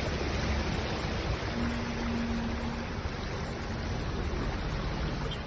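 Steady rushing water noise from flash flooding, even throughout, with a faint hum for about a second midway.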